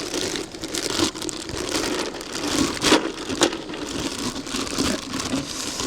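Crinkling and rustling of something being handled, with scattered small clicks and taps.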